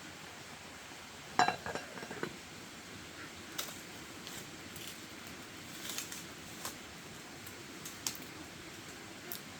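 A few light clinks and knocks of hard objects being handled, the loudest a ringing clink about a second and a half in, followed by scattered small ticks.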